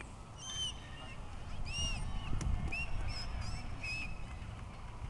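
Birds calling: a series of short, high, arching chirps that come again and again, over a low outdoor rumble.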